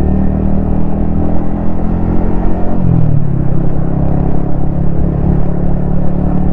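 Yamaha XSR155's single-cylinder engine running steadily under way, with a brief dip in engine pitch about three seconds in before it settles again.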